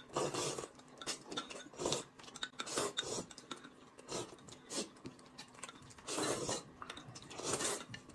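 Close-up eating sounds: noodles slurped and chewed in a run of short, irregular bursts, with light clicks of chopsticks on dishes.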